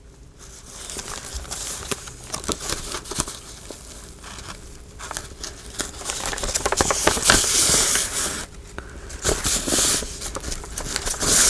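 Paper being handled, rustling and crinkling, with many small clicks and taps; the rubbing is loudest around seven to eight seconds in.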